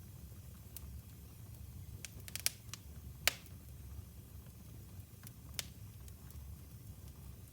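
Wood fire crackling in a fireplace: scattered sharp pops, with a quick cluster a little after two seconds and the loudest pop about three seconds in, over a low steady rumble.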